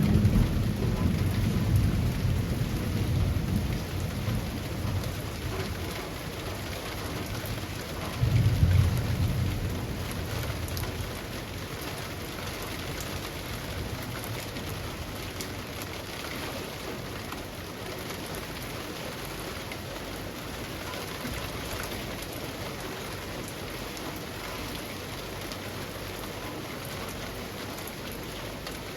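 Steady rain falling through leafy trees, an even hiss of drops. Low rumbles of thunder roll at the start and again about eight seconds in, then fade, leaving only the rain.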